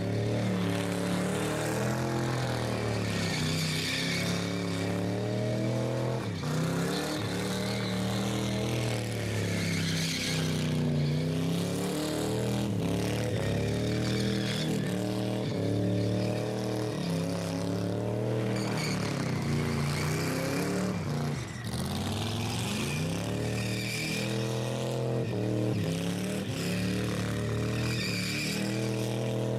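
Rat rod engine revved hard and held at high revs, its pitch rising and falling again and again, as in a burnout.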